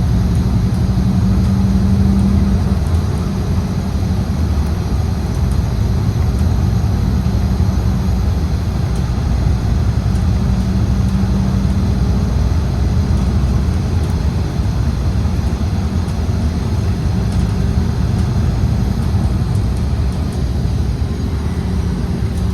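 Scania Citywide LE CNG city bus running on the road: a steady, loud low rumble of engine and driveline, with a humming tone that swells in briefly near the start and again about halfway through.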